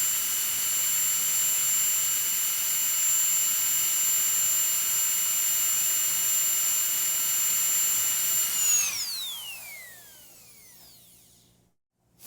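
High-speed dental drill whining at a steady high pitch, then spinning down about nine seconds in, its pitch falling as it fades out.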